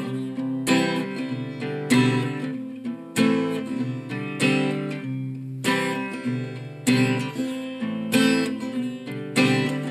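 Acoustic guitar strummed in a steady rhythm, a full chord struck about every second and a quarter and left ringing between strokes.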